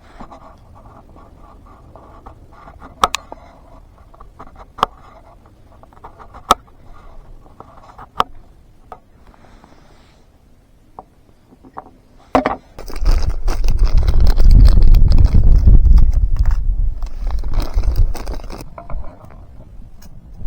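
A few sharp clicks or taps, roughly every second and a half, over a quiet background. Then, about two-thirds of the way in, strong wind gusts buffet the microphone with a loud, low rumble that dies down near the end.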